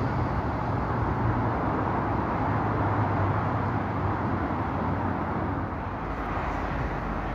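Diesel multiple-unit train running as it draws away along the line: a steady low hum in a wash of outdoor noise, easing off a little near the end.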